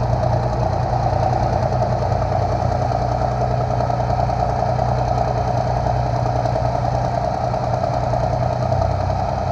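A large engine running steadily at idle, with a deep low hum and no change in speed.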